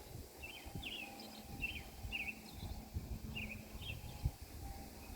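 A bird chirping: a series of short, high chirps at uneven intervals, about seven in all, over a low outdoor rumble.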